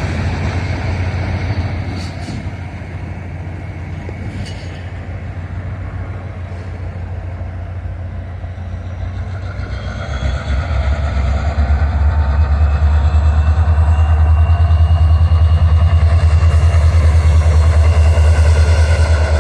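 Diesel-hauled train passing: a steady low engine rumble with faint wheel and rail tones above it, growing louder about ten seconds in.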